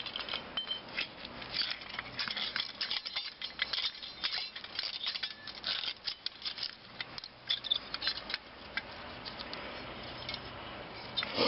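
Small metal pieces clinking and rattling as they are handled and shifted about, a quick irregular run of light clinks that thins out after about eight seconds.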